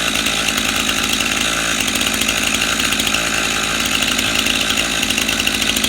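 Stihl MS 291 two-stroke chainsaw idling steadily, its engine running at an even pitch with the throttle not yet squeezed.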